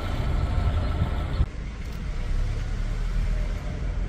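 Low, steady rumble of a car on the move, with the higher hiss dropping away suddenly about a second and a half in.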